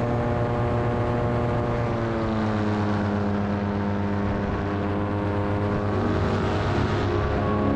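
Paramotor engine running in flight, its pitch dropping about two seconds in as the throttle is eased back, then holding steady.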